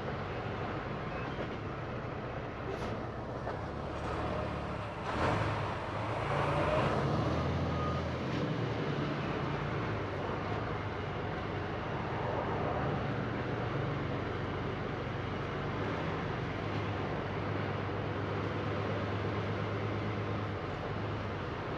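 Tractor-trailer's diesel engine running steadily in slow traffic, with road noise, and a brief louder swell of noise about five seconds in.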